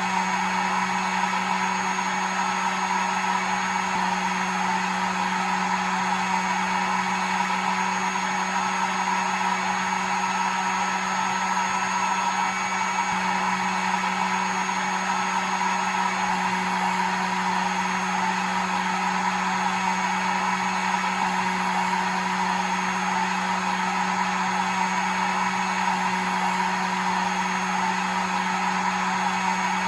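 Hair dryer running steadily: an even rush of blown air over a constant motor hum and a faint high whine, with no change in speed.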